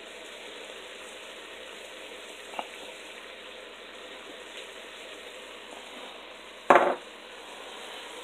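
Chicken and vegetables sizzling steadily in a frying pan on the stove. There is a small click about two and a half seconds in and a louder knock close to seven seconds in.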